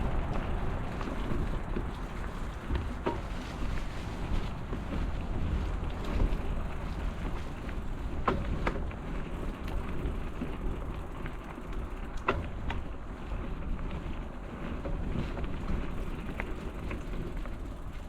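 Bicycle riding along a path: a steady rumble of tyres and wind on the microphone, with a few sharp clicks from the bike.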